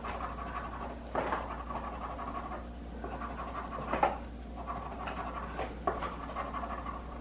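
Scratching the coating off an instant lottery scratch ticket: steady rubbing strokes, with louder scrapes about a second in and about four seconds in.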